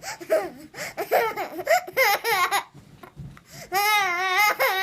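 A baby laughing in short, rapid bursts, then a pause and one long, high, wavering squeal that runs to the end.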